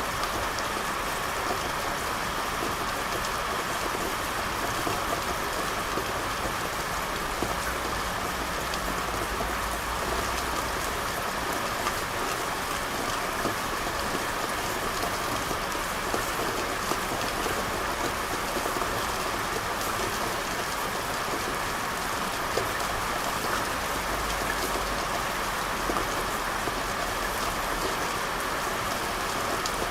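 Steady rain falling on a street, a constant even hiss of drops, with a faint low rumble in places.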